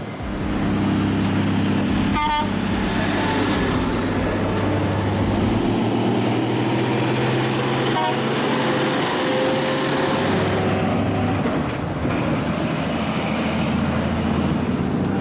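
Engine of a heavy vehicle running steadily, its tone shifting about eleven seconds in.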